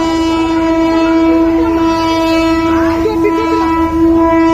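Train horn sounding one long, steady blast over the low rumble of the train as it pulls into the station.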